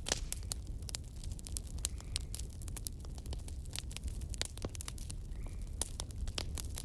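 Wood campfire burning, with irregular sharp crackles and pops, several each second, over a steady low rumble.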